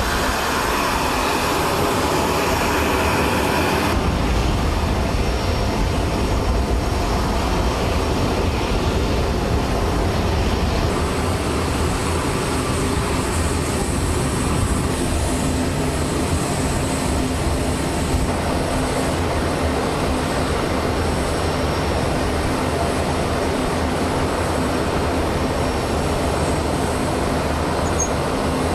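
Steady, loud mechanical vehicle noise, like an engine running, that changes abruptly about four seconds in and again partway through.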